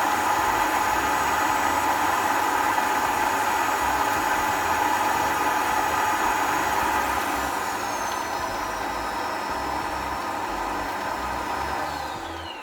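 Shark EVOPOWER SYSTEM NEO+ cordless stick vacuum running steadily with a high motor whine that steps down in pitch and gets a little quieter about halfway through. Near the end it is switched off and the whine falls away as the motor spins down.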